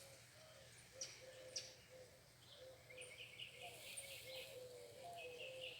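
Faint birdsong: a steady string of short low repeated notes, joined about halfway through by a fast, high chirping series, with two soft clicks about a second in.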